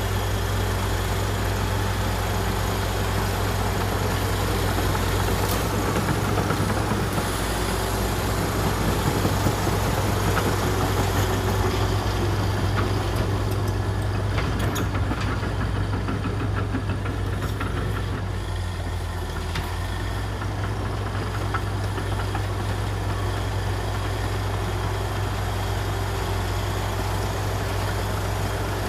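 Heavy diesel engine of a Komatsu D61EX crawler bulldozer running with a steady low drone, swelling slightly and then easing about two-thirds of the way through, with a few faint clanks in the middle.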